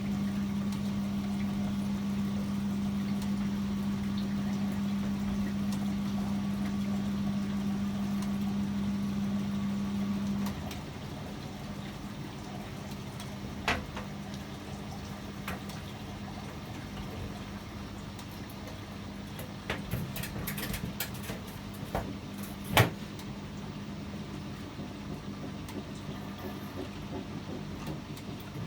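Privileg 804 washing machine running with a steady hum that cuts off suddenly about ten seconds in. The machine is quieter after that, with a few scattered clicks and one sharper knock about two-thirds of the way through.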